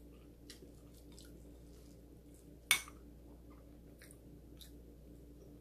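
A person chewing a mouthful of soft food close to the microphone, with small wet mouth clicks. One sharper click about halfway through is the loudest sound.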